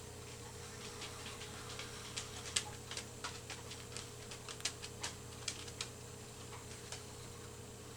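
Soft, irregular clicks and taps of paper being handled and pressed down onto a journal page, about a dozen small ticks with uneven gaps.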